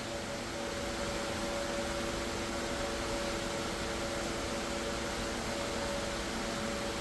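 Steady machine hum with a constant hiss and a few held tones, unchanging throughout.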